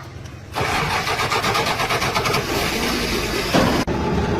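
An engine starts up about half a second in and keeps running loudly with a rapid, even firing pulse.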